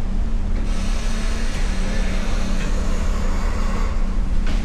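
Motor vehicle engines running with a steady low hum, with a rushing noise of a vehicle passing swelling in about a second in and fading near the end, then a short knock.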